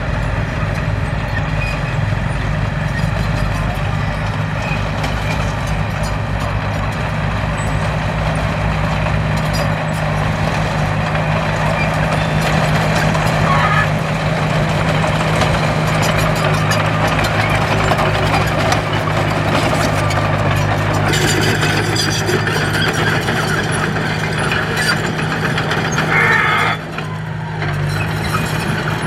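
Heavy earthmoving machine's engine running steadily, with clattering and scraping noise over it that grows harsher a little before the end. The engine sound dips briefly near the end.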